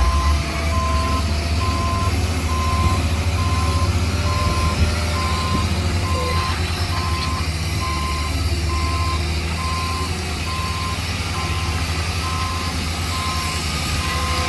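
Reversing alarm on a heavy construction vehicle, a steady single-pitched beep repeating about once a second, over the vehicle's engine running with a low rumble.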